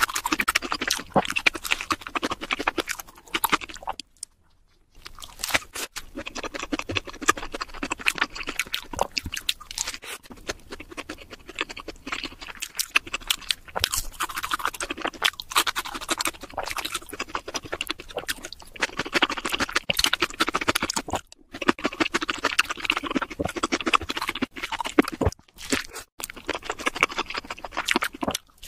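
Crunchy chewing and biting of fried food close to the microphone, a dense run of crackles that cuts out briefly a few times.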